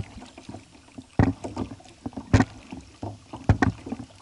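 Kayak paddle strokes: a splash with a sharp knock about once a second as the blades dip into the water.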